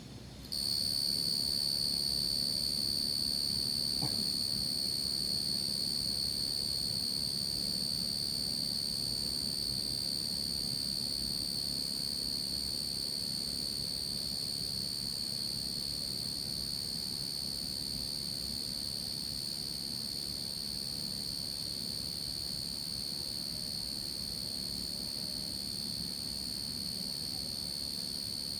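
A steady high-pitched whistling tone that starts abruptly about half a second in and holds unbroken, over a low hum.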